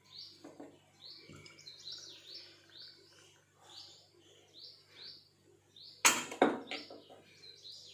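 Small birds chirping over and over, a couple of short high chirps a second, with one sharp clatter about six seconds in.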